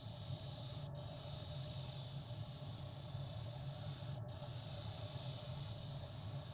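Shear blade being ground on a powered sharpening machine: a steady hissing grind over the motor's low hum, breaking off briefly twice.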